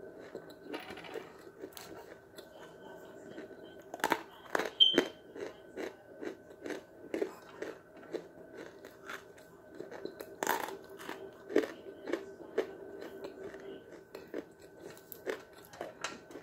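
Close-up crunching and chewing of chalk pieces: a dense run of sharp crunches, the loudest bites about four and ten and a half seconds in.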